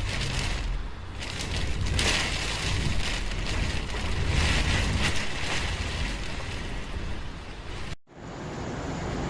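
Cyclone-force wind and heavy rain: a loud, gusting rush with low rumbling from the wind buffeting the microphone. About eight seconds in the sound drops out for a moment and comes back duller, as a different recording of the storm begins.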